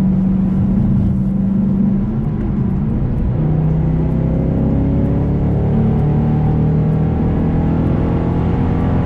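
Ford Shelby GT500's supercharged V8 heard from inside the cabin while cruising, a steady engine drone over tyre and road noise. The engine note drops in pitch about three seconds in.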